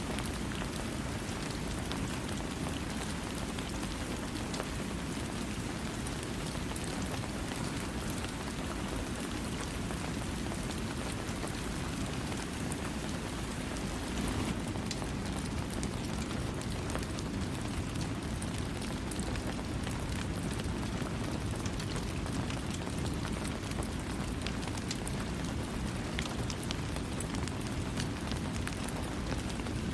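Steady rain falling on a surface, an even hiss with a low rumble and many fine drop taps, without thunder.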